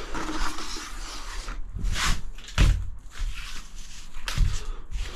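Irregular knocks and handling noises, with one heavier thump about two and a half seconds in.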